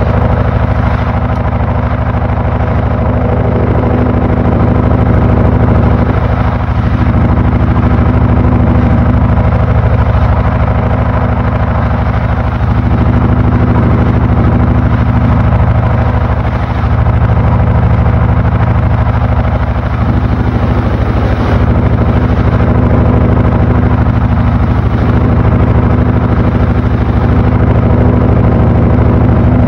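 Panasonic NA-FA80H8 washing machine running, its motor giving a steady, loud hum with only slight dips in level.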